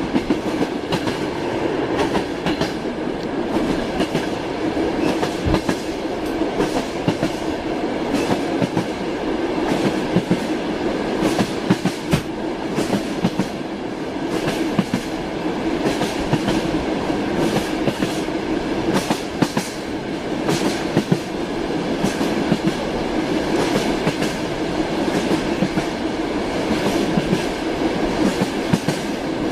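Train wheels clattering over the rails with a steady running rumble, the clicks of the wheels over rail joints coming irregularly and often.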